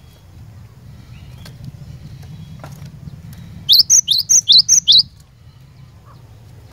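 Cinereous tit (gelatik batu) singing one quick phrase of about seven sharp whistled notes, alternating high and low, lasting just over a second around the middle. A steady low hum runs underneath.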